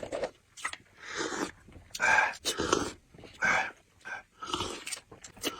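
Noisy eating: a series of about six short breathy slurps with brief pauses between them.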